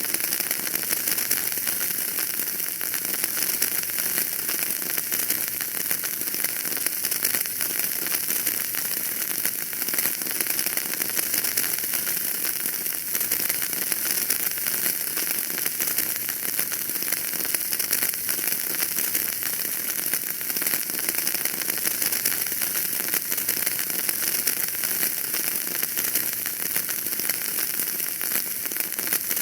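Wood fire burning in a fireplace, crackling steadily: a dense, even run of small snaps and pops over a high hiss.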